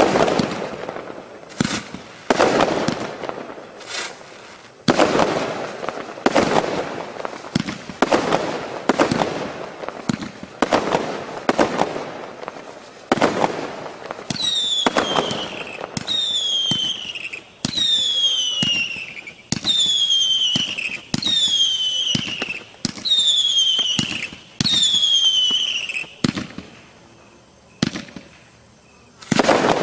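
Wolff 'Planet Explosion' 101-shot fireworks cake firing: a quick string of shots bursting with sharp bangs, then about halfway through a run of about seven whistling shots, each a falling whistle. A short lull follows, and one more bang comes near the end.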